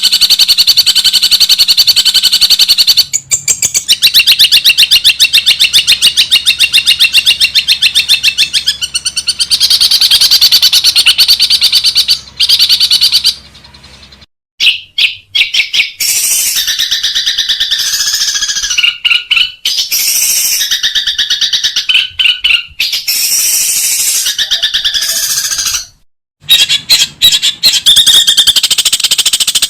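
Long-tailed shrike (cendet) giving loud, fast chattering strings of repeated harsh notes. The song breaks off abruptly twice, about 14 and 26 seconds in, and then resumes.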